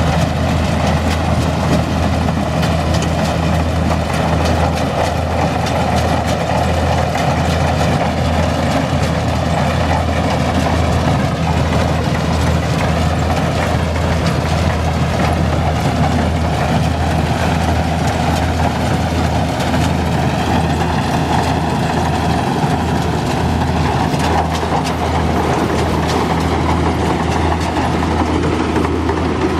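Kubota rice combine harvester's diesel engine and machinery running steadily at a constant pitch, with a deep, even engine note under a continuous mechanical clatter.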